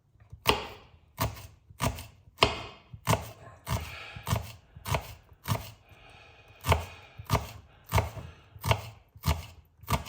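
Knife chopping onions on a cutting board, steady strokes about one and a half a second, with a brief pause about six seconds in.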